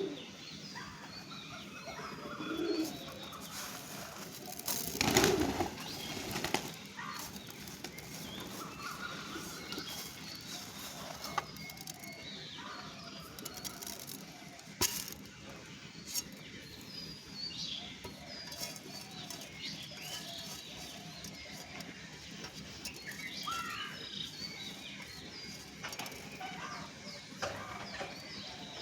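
A flock of birds gathered to be fed, with many short chirps and calls all through and a loud flurry of flapping wings about five seconds in.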